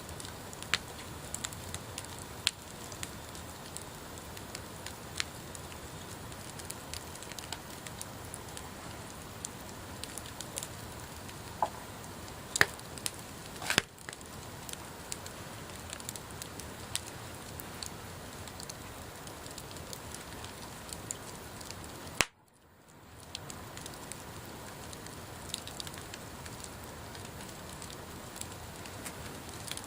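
Wood bonfire burning with a steady hiss and frequent sharp crackles and pops; one pop a little under halfway through is the loudest. About two-thirds of the way through the sound drops out for a moment and fades back in.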